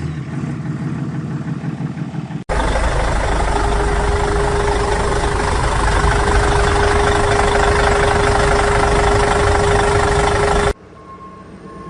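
Vehicle engine running, then an abrupt cut to a louder rushing noise with a steady whistling tone that lasts about eight seconds and cuts off suddenly.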